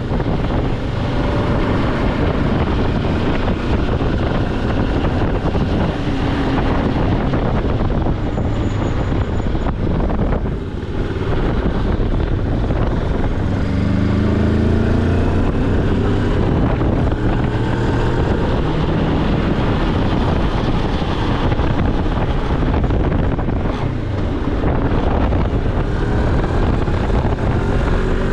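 Moto Morini X-Cape motorcycle engine running on the move, with heavy wind noise on the microphone. Near the middle the sound briefly drops, then the engine note rises as the bike accelerates.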